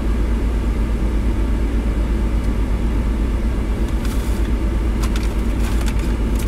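A car's engine idling, heard inside the cabin as a steady low rumble, with a few short rustles and clicks in the second half.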